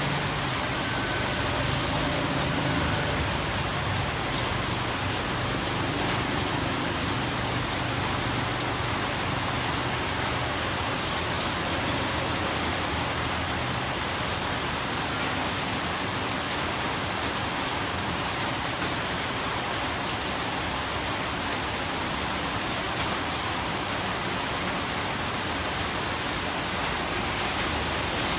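Steady heavy rain falling and pattering on a surface.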